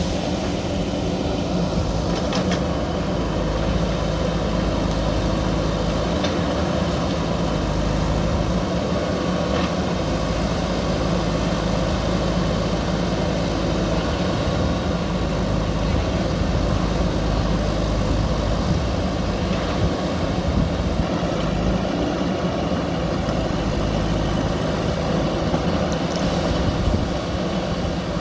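JCB backhoe loader's diesel engine running steadily with no change in revs, with a few faint knocks over it.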